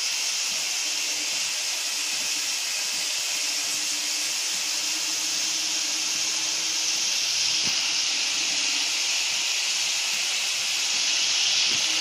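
Spice paste with tomato and a little water sizzling steadily in hot oil in a kadai as it is fried down: an even hiss that does not change.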